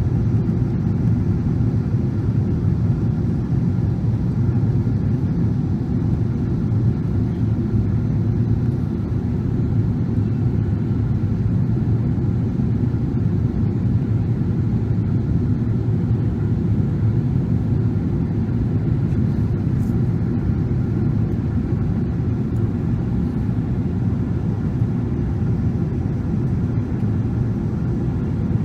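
Steady, loud cabin rumble inside a Boeing 777-300 airliner descending on final approach: engine and airflow noise heard from a passenger seat.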